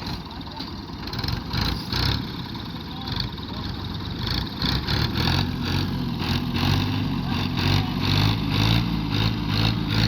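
Tractor engine running hard under a heavy load, its steady drone growing louder about halfway in, with irregular knocks and clatter over it.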